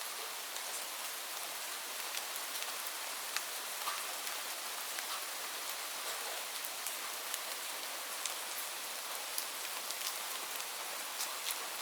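Steady rain falling, a continuous hiss with many separate drops ticking sharply through it.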